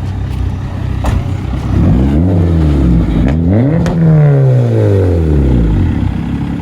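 Car engine being revved: the pitch climbs briefly about two seconds in, then climbs again to a peak around four seconds in and falls away slowly as it returns toward idle.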